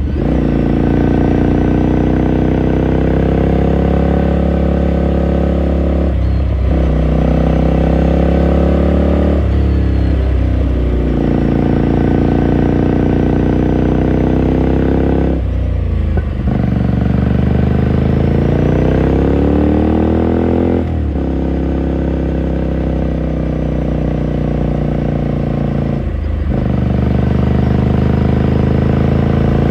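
A 2018 Ducati Scrambler Sixty2's air-cooled L-twin engine running while riding, heard through its exhaust. The engine note climbs steadily in pitch and breaks off in a short dip about five times as the rider changes gear.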